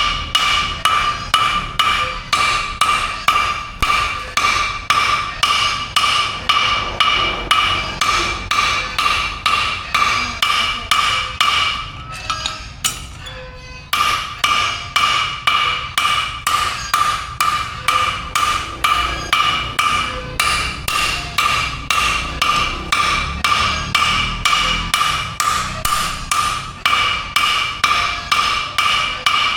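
Hammer blows on steel at an anvil, struck in a fast steady rhythm of roughly two to three blows a second, each leaving a bright metallic ring. The hammering breaks off for about two seconds near the middle, then resumes.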